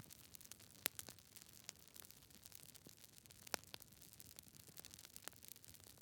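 Campfire crackling: a faint hiss of burning with scattered small crackles and a few sharper pops, about a second in, midway, and near the end.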